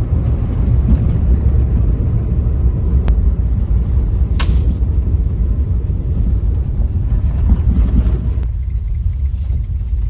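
Steady low rumble of a vehicle on the road, heard from inside the cabin, with a sharp click about three seconds in and a short hiss a moment later; the rumble grows thinner near the end.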